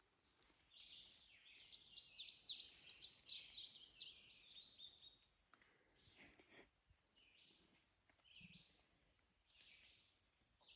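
A woodpecker's rapid series of high calls lasting about four seconds, followed by a few fainter single calls.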